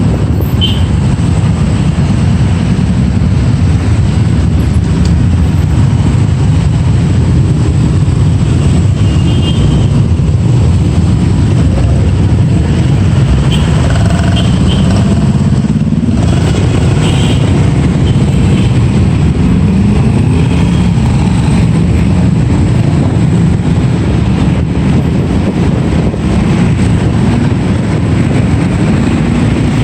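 Riding on a motorbike through city traffic: the motorbike's engine running under a loud, steady rush of low noise, with the engine note rising and falling a few times as it speeds up and slows.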